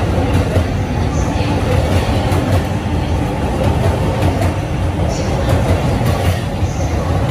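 JR East E531-series electric commuter train rolling past a station platform: a steady low rumble of wheels on rail, with faint clicks as the wheels pass over rail joints.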